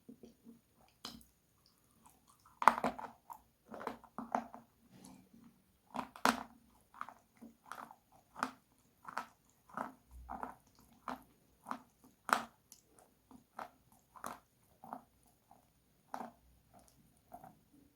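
Close-miked biting and chewing of something crunchy. A loud crunching bite comes about three seconds in, then a steady run of crunchy chews, roughly one every half to three-quarters of a second.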